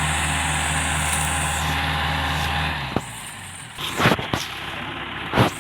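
A heavy vehicle's diesel engine running steadily with a low, pulsing note, which drops away about three seconds in. After it come a few sharp, loud knocks or bangs, around four seconds and again near the end.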